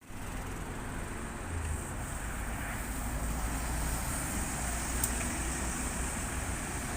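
Steady city street traffic noise, a continuous low rumble of road vehicles.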